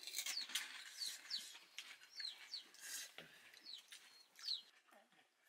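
Faint bird chirping: a series of short, high chirps, each falling in pitch, a little more than one a second.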